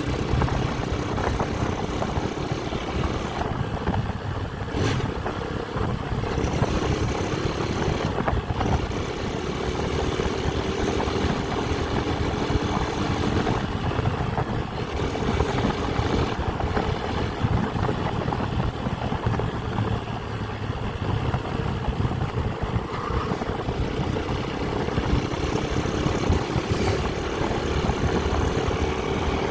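Motorcycle engine running steadily while riding, its pitch drifting gently up and down with the throttle, under a steady rush of wind and road noise.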